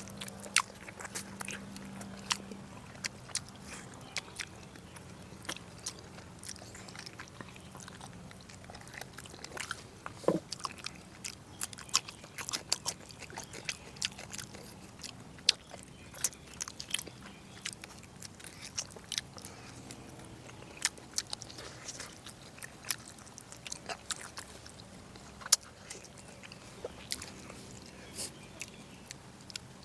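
Close-miked chewing and mouth sounds of someone eating braised pork: irregular wet clicks and smacks, many a second at times, over a faint steady hum.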